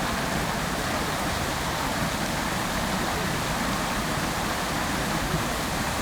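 Fountain water falling and splashing steadily, a dense, even rush with no breaks.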